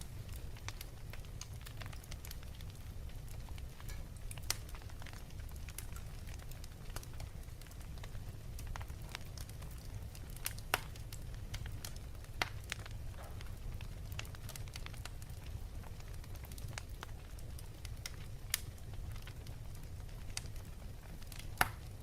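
Crackling wood fire in a fireplace: a steady low rumble with irregular sharp pops, two of them louder, about halfway through and just before the end.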